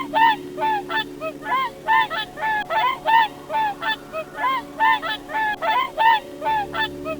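A bird, or birds, giving short, loud, honking calls in quick succession, about three a second.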